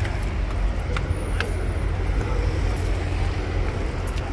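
Street traffic noise: a steady low rumble of passing vehicles, with a few brief clicks.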